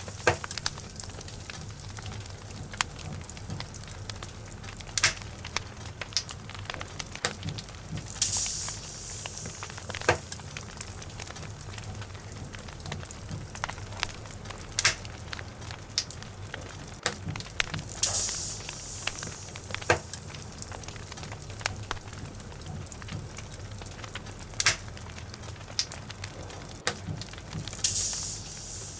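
Wood fire in a fireplace crackling, with many irregular sharp pops over a steady low rumble. A short hiss rises about every ten seconds.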